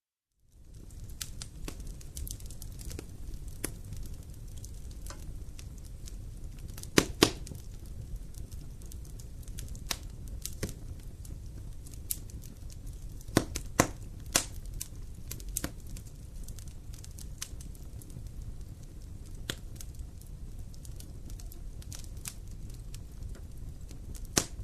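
Wood campfire burning, with irregular crackles and sharp pops over a steady low rumble of the flames. The loudest pops come in a pair about seven seconds in and in a cluster a little after halfway. It starts suddenly out of silence after half a second.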